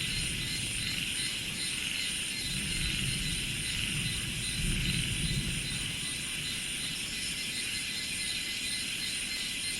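Rice-field ambience: a steady high chorus of insects with a faint pulsing high trill, over a low rumble of a distant engine that swells twice, about three and five seconds in.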